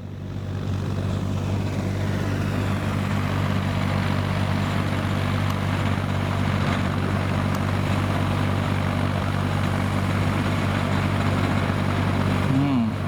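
Kubota M5000 tractor's diesel engine running steadily under load while driving a rotary tiller. The sound swells over the first second or two, then holds even.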